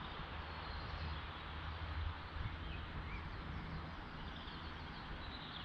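Open-air background: a steady low rumble and hiss, with a few faint bird chirps.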